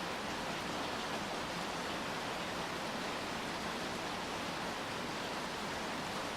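Steady rain falling, an even hiss with no separate drops or changes standing out.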